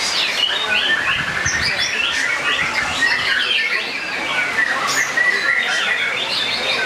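Several caged songbirds singing at once: dense, overlapping chirps, whistles and quick trills with no pause.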